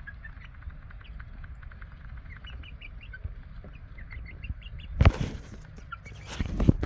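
Young chickens peeping with many short, high cheeps, over a low rumble. About five seconds in, and again near the end, a loud brief scuffle of rustling and flapping breaks in.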